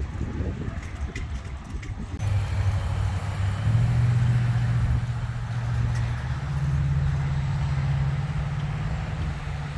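A motor vehicle's engine running with a steady low hum that steps up in pitch twice.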